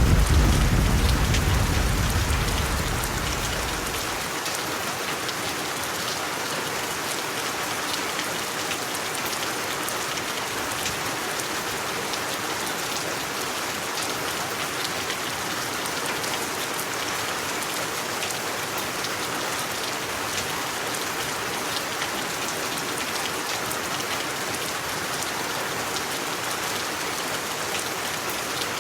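Steady rain falling, an even hiss with many fine drop ticks. A deep low rumble fades away over the first few seconds.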